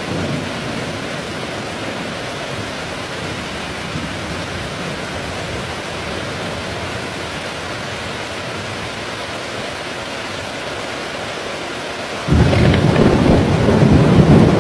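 Heavy rain falling steadily, then near the end a thunderclap breaks in suddenly and rolls on as a loud rumble.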